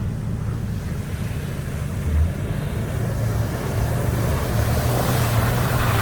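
Off-road vehicle's engine running steadily while it crawls along a creek trail, with a low bump about two seconds in. A splashing, gravelly hiss from the tyres in water and rock grows louder through the second half.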